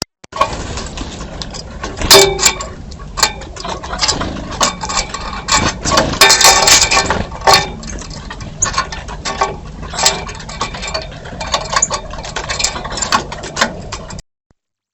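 Birds at a feeder: many sharp taps and short high chirps, busiest a couple of seconds in and again around the middle, over a steady low hum. The sound cuts off suddenly near the end.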